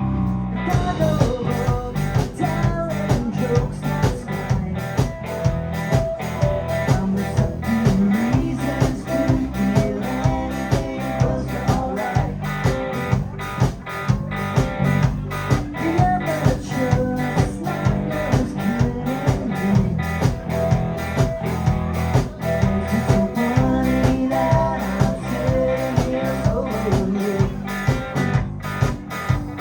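Live rock band playing: electric guitar, bass, drum kit and keyboards over a steady drum beat. The full band comes in right at the start.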